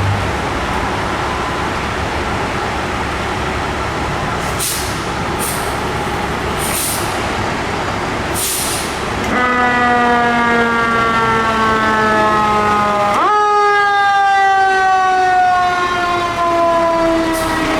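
Fire apparatus engine running, with several short hisses of air. About halfway in the fire engine's siren comes on: its pitch slowly falls, sweeps sharply up, then slowly winds down again.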